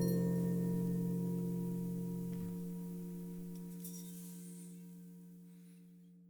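Gong ringing out after being struck, its low wavering tones fading away steadily to silence near the end.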